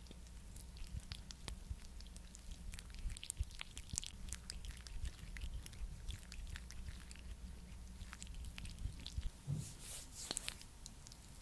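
Close-miked sticky, wet crackling of a thick skincare product being worked by hand: a dense, irregular run of small clicks with a few louder ones near the end, over a steady low hum.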